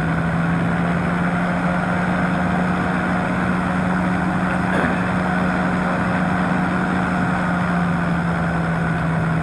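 Powered parachute's engine and propeller running steadily in flight, a constant drone at one unchanging pitch.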